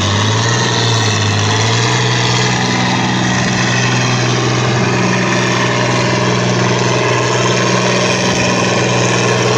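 Stock farm tractor's diesel engine pulling a tractor-pull sled under full load. Its pitch rises in the first second and then holds steady.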